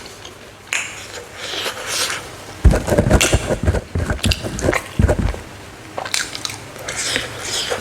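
Close-up eating: chewing and biting into smoked frog, with many small clicks and a few dull low thumps about three and five seconds in.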